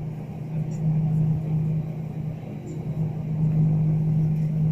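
Steady low drone inside the cabin of an Airbus A319 airliner, swelling and easing in level every second or two.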